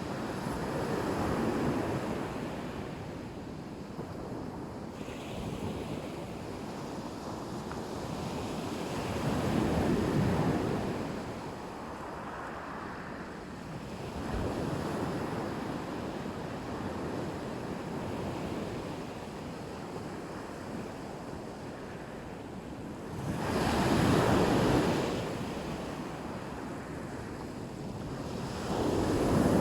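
Black Sea surf: waves breaking and washing onto the shore, the noise swelling with each wave, four times, loudest near the end, with some wind on the microphone.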